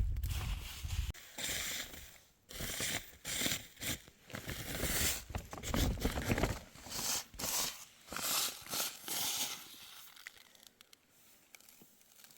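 Irregular bursts of rustling and crackling, like leaves, stems or soil being handled, that die down over the last few seconds.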